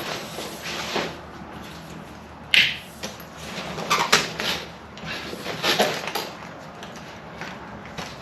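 A canvas swag being handled and set up: irregular rustling and knocks, with a sharp clack about two and a half seconds in.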